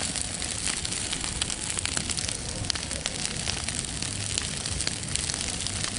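Bonfire burning, crackling steadily with many sharp pops over a constant rushing hiss.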